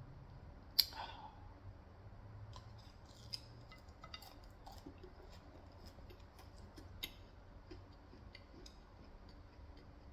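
Faint eating sounds of a person chewing fried chicken, with scattered small clicks and crackles and one sharp click about a second in.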